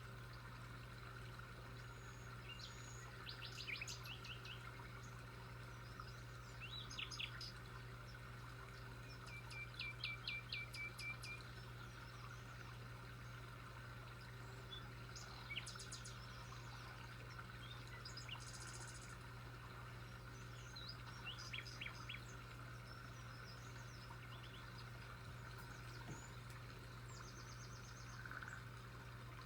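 Small birds chirping in short, scattered bursts of quick repeated high notes, with a faint steady low hum underneath.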